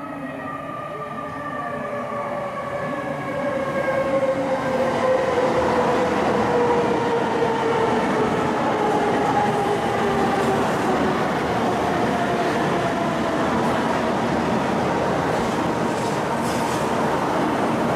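Kyushu Shinkansen high-speed train running past on a viaduct. A steady rush of wheel and running noise grows louder over the first few seconds and then holds, and a whine slides slowly down in pitch.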